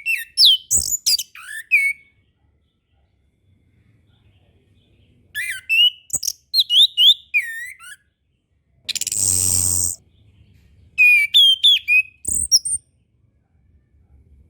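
Chestnut-capped thrush song: three phrases of rapid, varied whistled notes with quick up-and-down slurs, and pauses of a few seconds between them. A harsh, buzzy sound lasting about a second comes between the second and third phrases.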